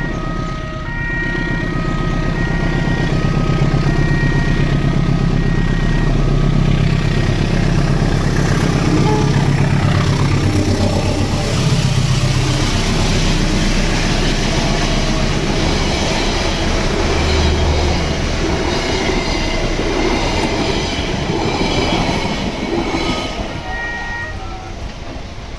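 Level-crossing warning signal sounding its repeating electronic chime as a diesel-hauled train approaches and passes, its engine rumbling and its wheels clattering over the rails. The train noise fades near the end, while the warning chime is still going.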